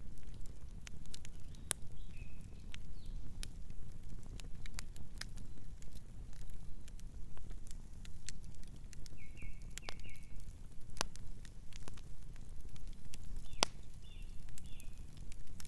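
Wood fire crackling, with scattered sharp pops over a steady low rumble of burning. A distant bird gives short chirps about two seconds in, again around nine to ten seconds, and a few more near the end.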